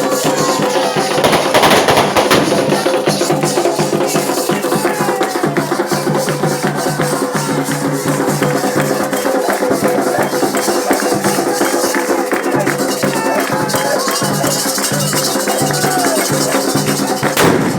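Candomblé ceremonial music: hand drums and shakers beating a dense, steady rhythm, with voices singing over it.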